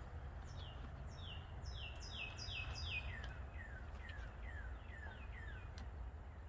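A small songbird singing a run of quick, falling chirps, about three a second, that drop to a lower pitch about halfway through. A steady low rumble runs underneath.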